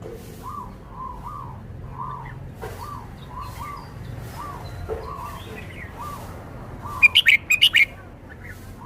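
Red-whiskered bulbul singing: a loud, quick phrase of bright notes about seven seconds in, over a run of softer short calls repeating about twice a second.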